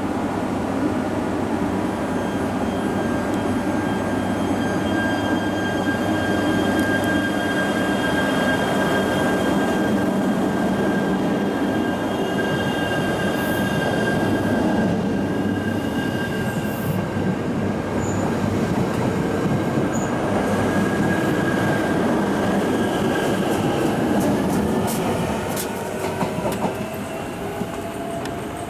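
JR East E3 series 700 'Toreiyu' mini-shinkansen train departing: a steady rumble of wheels on rail with a high whine as the cars pass close by. Near the end it grows quieter as the train moves away, and a rising whine shows it gaining speed.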